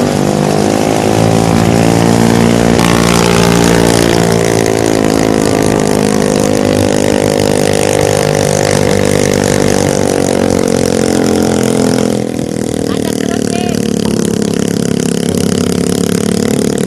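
Small modified Cub-based motorcycle engine running under way, its pitch slowly rising and falling with the throttle; it eases off about twelve seconds in.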